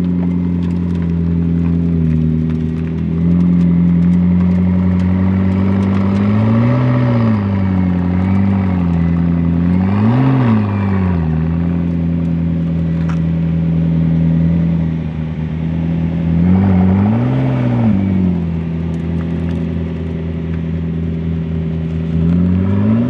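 A car engine idling steadily, briefly blipped about five times, the pitch rising and falling back with each rev.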